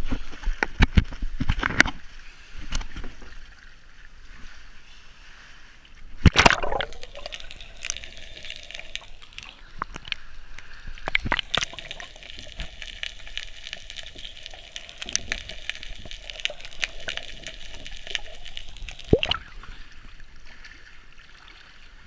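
Sea water sloshing and gurgling close to a GoPro, with a sudden loud splash about six seconds in. After the splash the sound turns muffled for a long stretch, with a faint steady hum.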